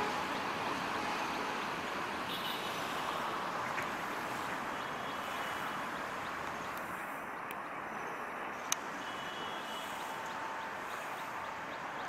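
Meter-gauge passenger coaches rolling away along the track, a steady noise that fades slightly as they recede, with one sharp click about three-quarters of the way through.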